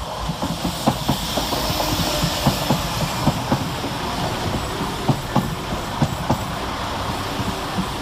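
Two coupled Class 172 Turbostar diesel multiple units running into the station, with steady running noise and many sharp clicks and knocks of the wheels over the rail joints.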